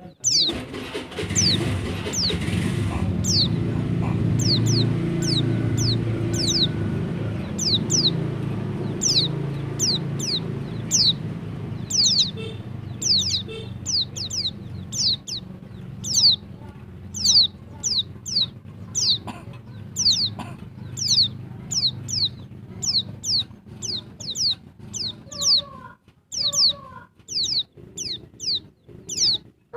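Female white-eye (pleci) calling to a male: short, high, thin notes, each sliding downward, repeated steadily at just under two a second. A low rumble runs underneath and fades out after about twenty seconds.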